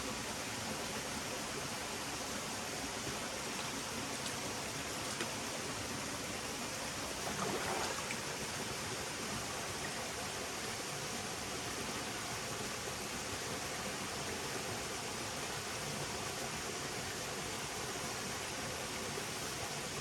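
Forest stream flowing steadily, a continuous rushing water sound that swells briefly about seven seconds in.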